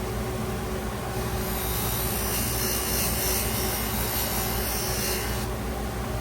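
Steady mechanical running noise with a low hum, joined by a strong high hiss from about a second in until shortly before the end.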